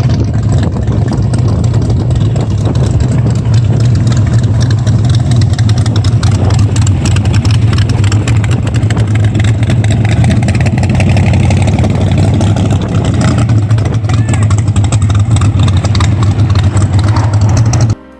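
A car engine running steadily and loud, close up, with a strong low hum, until it cuts off abruptly near the end.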